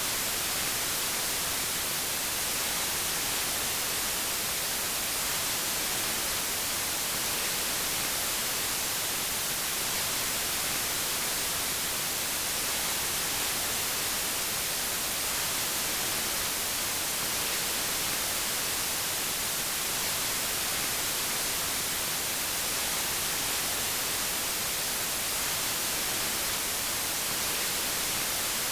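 Steady white noise: an even, unchanging hiss with its energy weighted toward the high frequencies.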